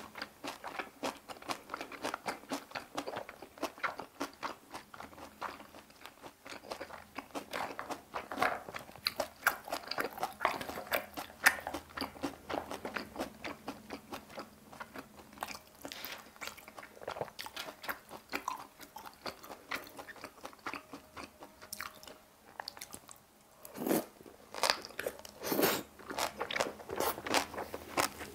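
A person chewing kimchi and boiled pork, with crisp, wet crunches in quick irregular succession. A short pause comes a few seconds before the end, followed by a few louder crunches.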